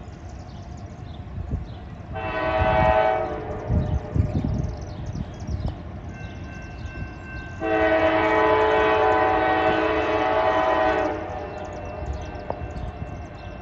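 Freight locomotive's multi-chime air horn sounding a short blast, then a long one a few seconds later, over the low rumble and clicking of the train.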